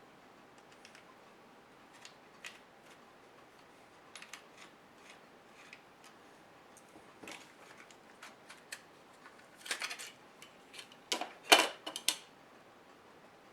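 Scattered small clicks and taps of hands and tools handling a laptop's plastic and metal parts. They become busier clusters of clattering knocks around ten seconds in and again near the end, the loudest about eleven and a half seconds in.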